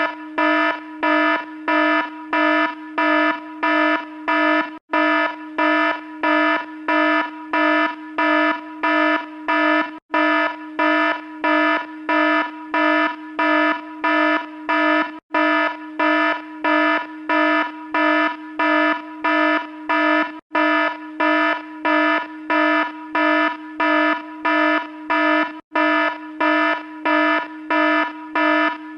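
Electronic alarm sound effect: a buzzy, steady-pitched beep pulsing on and off about twice a second, with a short break about every five seconds.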